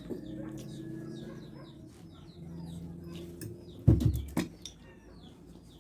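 Birds chirping repeatedly in the background, with a low pitched sound under them for the first few seconds. A single loud knock comes about four seconds in, followed by a smaller one.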